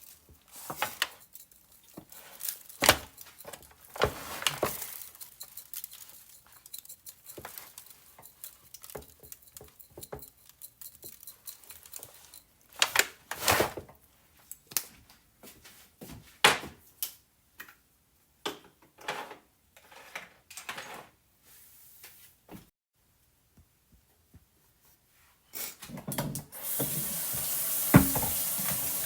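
Kitchen work: scattered clinks and knocks of dishes, pots and utensils being handled. About 26 seconds in, a tap is turned on and water runs steadily into the sink.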